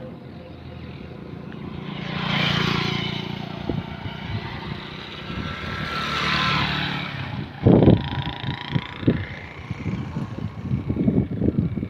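An engine running steadily, with two swells of louder noise as it passes or picks up, then a string of irregular short thumps from about two-thirds of the way in.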